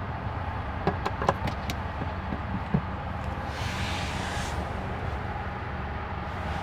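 Steady low hum inside a car cabin, with a few light clicks of interior trim being handled about a second in and a brief rushing hiss near the middle.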